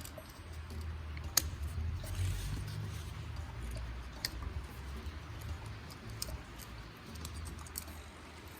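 Faint handling noise of parts and tools during hands-on work: a few scattered sharp clicks, the loudest about a second and a half in, over a low rumble.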